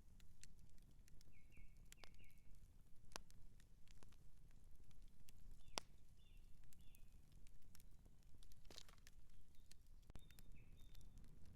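Outdoor campfire crackling: irregular sharp pops and snaps over a steady low rumble. A few short high chirps come in three brief clusters, near the start, in the middle and near the end.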